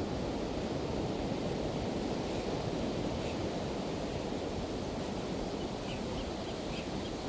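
Pacific Ocean surf washing steadily on the beach: a continuous, even rush of waves with no distinct breaks.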